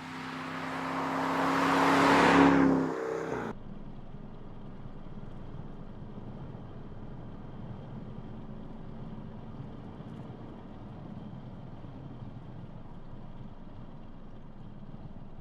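BMW 6 Series Gran Coupe driving: engine and tyre noise builds to a loud peak about two and a half seconds in, then cuts off abruptly a second later. After that a steady, quieter engine drone carries on.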